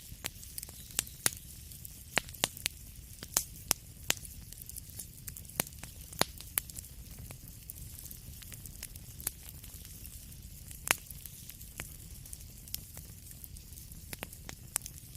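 Wood fire in a fireplace crackling and popping: irregular sharp pops, thicker in the first half and with one louder snap near the end, over a steady low rumble of flame.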